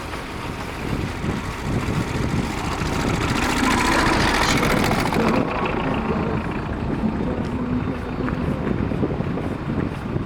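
A motor vehicle passing in a blizzard, its engine and tyre noise swelling to a peak about four to five seconds in and then easing off, over wind buffeting the microphone.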